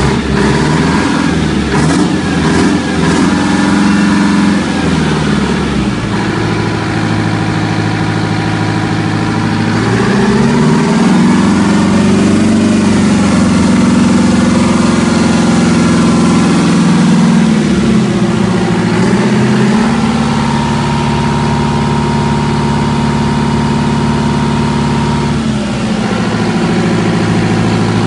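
Detroit Diesel Series 71 two-stroke diesel engine running in after a major overhaul, with its speed changed several times. It drops about five seconds in, climbs to a higher speed about ten seconds in and holds there, falls back around eighteen seconds, then runs steady before shifting again near the end.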